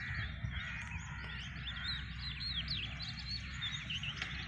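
Several birds chirping and calling together, many short quick chirps overlapping one another, over a steady low rumble.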